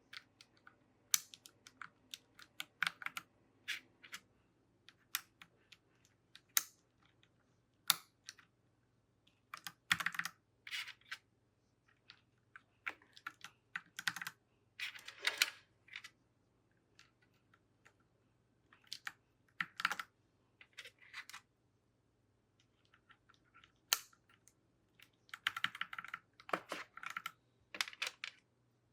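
Plastic keycaps being pressed back onto a mechanical keyboard's switches: irregular sharp plastic clicks and clacks, some in quick clusters, with pauses between.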